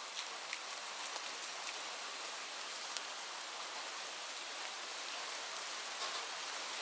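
Steady rain falling on leaves: an even hiss with scattered sharp taps of single drops.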